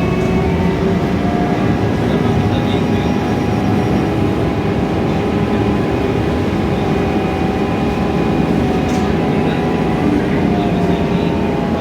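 Inside a TransJakarta Scania K320iA CNG city bus on the move: steady engine and drivetrain drone with road noise and a faint constant whine.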